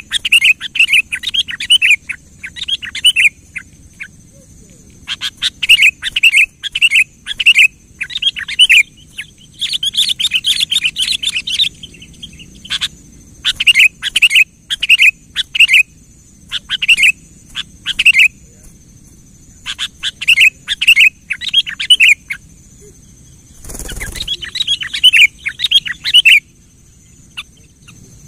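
Sooty-headed bulbul (kutilang) singing: repeated short phrases of quick, bubbly notes with brief pauses between them. A short dull knock sounds once, late on.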